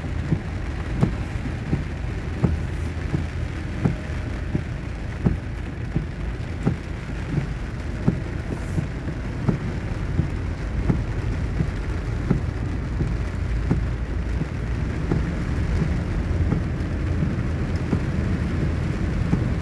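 Heavy rain drumming on a car's roof and windscreen, heard from inside the moving car, over a steady low rumble. Sharp knocks come about every second.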